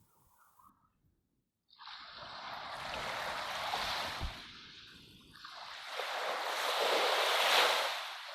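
Two swells of rushing surf, each building and falling away like a wave washing in, after a second or two of near silence.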